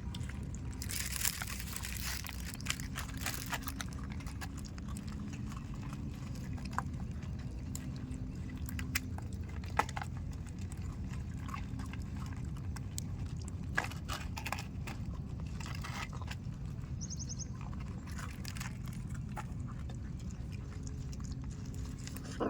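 A dog eating, with scattered chewing and crunching clicks over a steady low background rumble.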